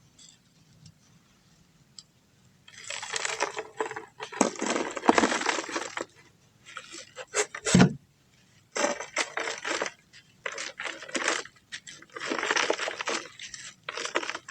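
Dry lumps of brown dirt or sand-cement crumbling with gritty crunching and crackling, in repeated spells of a second or so, after a few seconds of quiet. One sharp snap stands out just before the middle.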